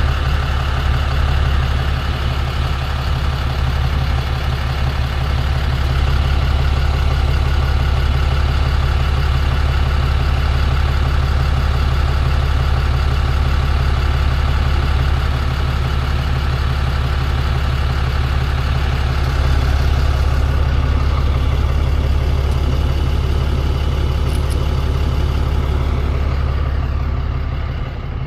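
Tow truck engine idling steadily, a deep even running note; it gets a little quieter near the end.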